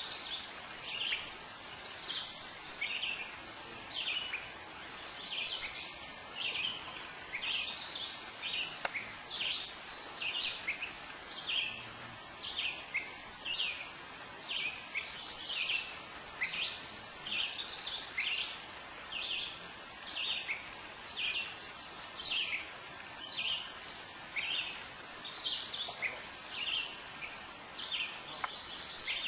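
Birds chirping and singing: a steady stream of short, high notes that sweep downward, one after another, over a faint background hiss.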